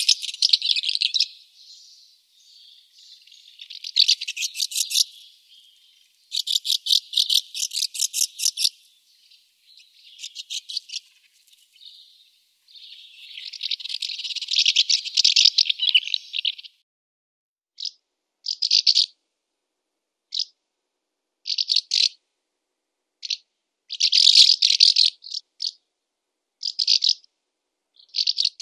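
Barn swallow singing: long twittering phrases with a fast, dry rattle of even clicks, then, from about eighteen seconds in, a string of short separate chirps.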